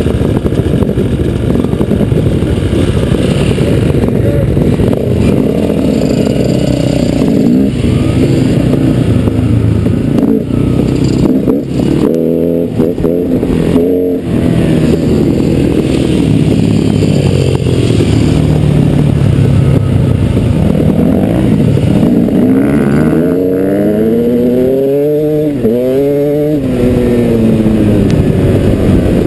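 Dirt bike engine running loud under throttle, its pitch rising and falling as the rider speeds up and backs off, with several quick rev swings up and down near the end.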